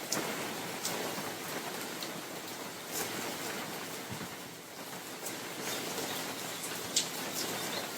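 Steady rain falling in a forest: an even hiss of rainfall with scattered single drops ticking out louder above it. A sharper drop lands about seven seconds in.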